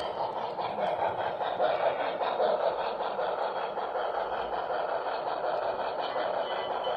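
HO-scale model train running steadily along the layout's track, a continuous running noise with fine rapid clicking.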